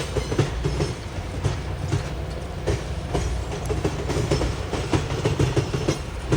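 Railroad cars rolling past: a steady low rumble with the wheels clicking and knocking over the rail joints, several knocks a second.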